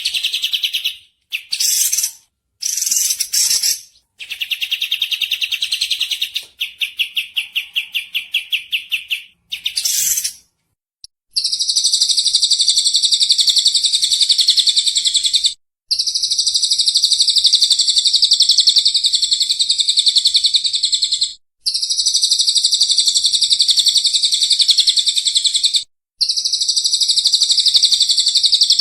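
Songbird masteran recording: high-pitched chirping and trilling, first in several short bursts and a run of rapid repeated notes, then long unbroken fast trills of about four to five seconds each with brief gaps between them.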